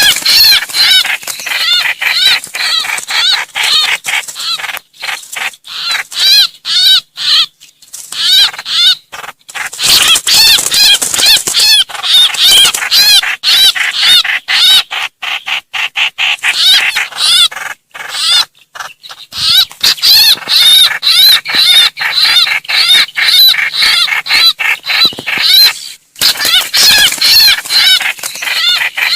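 Trao trảo bird distress calls: a dense, rapid chatter of short, harsh rising-and-falling notes, the cry that calls the flock to help. The calls pause briefly twice.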